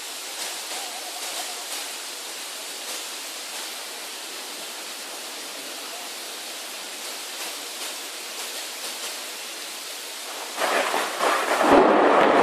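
Steady hiss of rain, then about ten and a half seconds in a loud crackling thunderclap from a nearby lightning strike, lasting nearly two seconds before cutting off suddenly.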